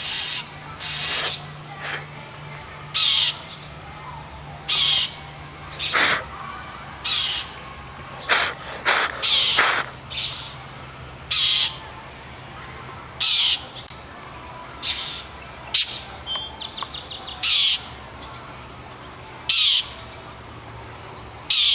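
Blue jays giving short, harsh alarm calls over and over, about one a second: scolding and mobbing a cat. A brief rattling call is heard about two-thirds of the way through.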